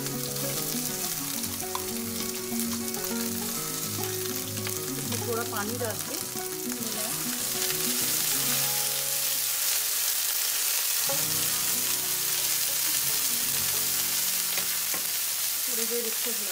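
A ground green chilli, ginger and capsicum paste frying in hot ghee in a nonstick pan, stirred and scraped with a wooden spatula. The sizzle grows louder about halfway through.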